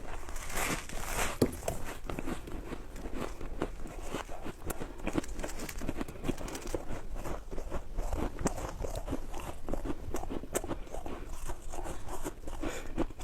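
A person biting and chewing ice, a steady run of dense, irregular crunches and crackles.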